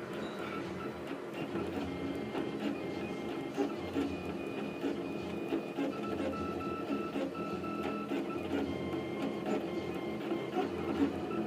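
Leapfrog Creatr 3D printer running a print: its stepper motors whine in several tones that keep changing pitch as the head and bed move, over a steady mechanical hum with small ticks.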